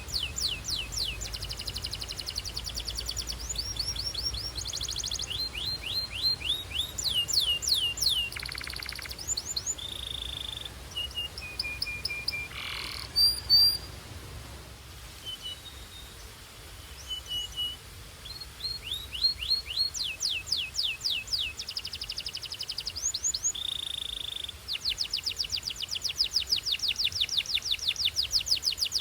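Belgian canary singing: rapid trills of repeated notes broken by short held whistles. There is a quieter stretch in the middle, then a long, fast trill near the end.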